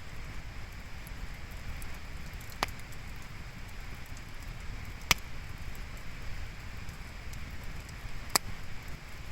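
Wood campfire burning with a steady hiss and light crackle, and three sharp pops of the burning wood, the loudest about halfway through.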